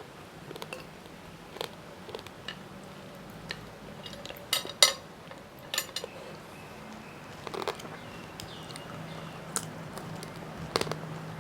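Scattered light clinks and taps of tableware being handled, with a quick cluster of louder clicks a little before halfway and a few single taps later.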